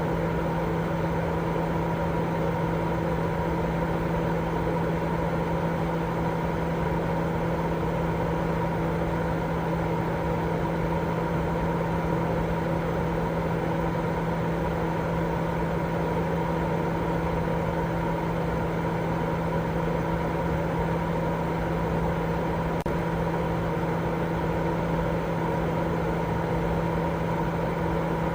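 Continuous baby-sleep white noise: a steady, unchanging rushing sound, strongest in the low and middle range, with a constant hum running under it.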